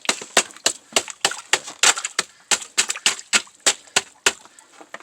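Ice crust crunching and cracking in a quick run of sharp clicks, about four to five a second.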